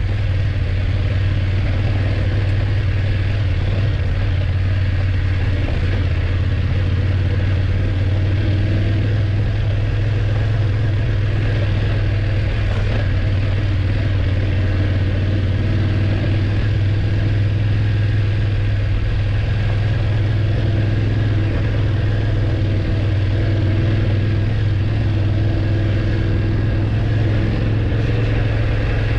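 BMW F850GS motorcycle's parallel-twin engine running at a steady pace under way, a constant low drone with noise over it and no change in engine speed.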